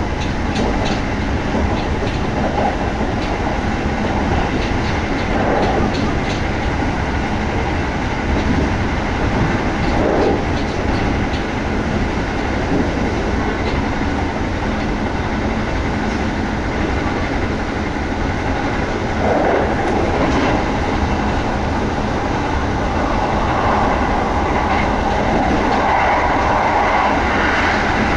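Running noise inside a Kintetsu 1200-series electric train carriage at speed: a steady rumble of wheels on rails, with faint clicks over rail joints in the first few seconds. The noise grows a little louder near the end.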